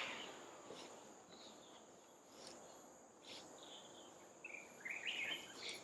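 Faint, steady, high-pitched drone of insects such as crickets, with a few faint short chirps in the second half.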